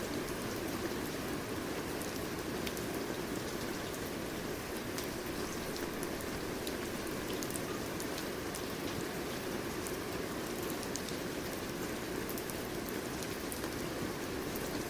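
Steady rain falling, with a dense even patter and scattered individual drop ticks.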